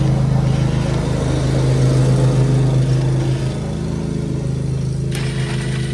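Cordless impact wrench hammering on a 17 mm steering-rack bolt through a swivel and extension, with the power sapped by the extensions; it stops about three and a half seconds in. A lawn mower engine runs steadily behind it.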